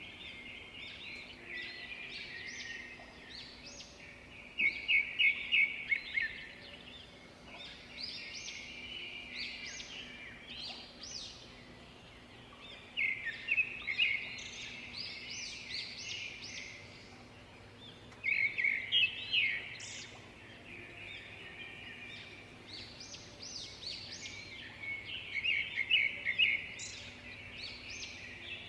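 Small birds chirping and calling in recurring bursts, some as quick runs of rapid notes, over a faint steady background hum.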